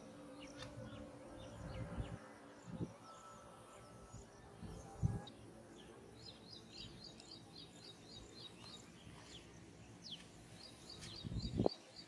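Quiet pondside ambience: a bird calling in two quick runs of high, evenly repeated chirps, with a few soft knocks and rustles from handling close by and a louder rustle near the end.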